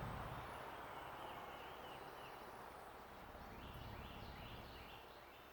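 Small birds chirping, a quick run of short high notes over outdoor background noise, busiest past the middle.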